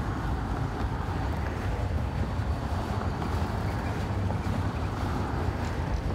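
Freight train of enclosed autorack cars rolling past, a steady low rumble of wheels on rail. A faint thin high whine comes in about halfway through.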